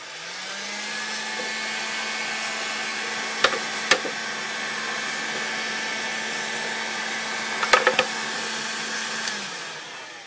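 Electric heat gun running: its fan motor spins up at the start into a steady blowing hum, then winds down and stops about nine seconds in. A few sharp clicks come twice in the middle.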